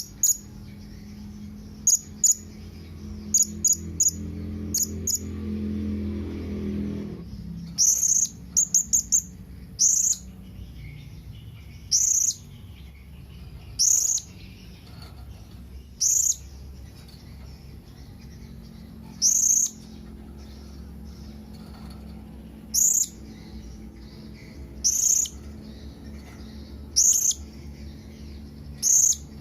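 Blue-crowned hanging parrot (serindit) giving short, sharp, very high-pitched calls, its contact call to others of its kind. Several come in quick succession early on, then single calls about every two seconds, over a faint steady low hum.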